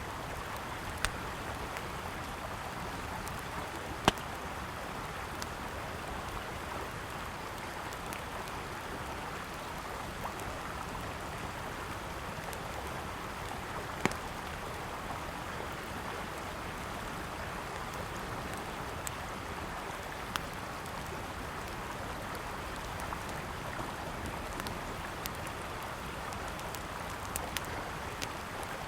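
Steady rushing of a flowing river, with the sharp, scattered pops of a crackling wood campfire over it; the loudest pops come about 4 and 14 seconds in.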